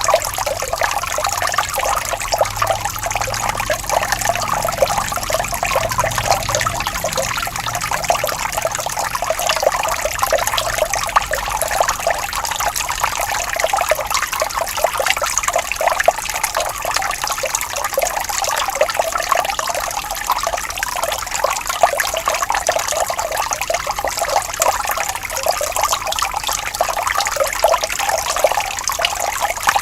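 Gently flowing water trickling and babbling steadily, with no pauses.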